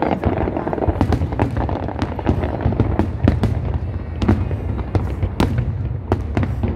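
Aerial fireworks display: many shells bursting in quick succession, with sharp bangs and crackles several times a second over a continuous low rumble.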